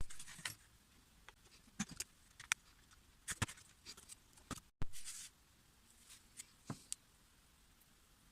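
Scattered light clicks, taps and short scrapes of parts or tools being handled, irregular and a dozen or so in all, the loudest at the start and about five seconds in.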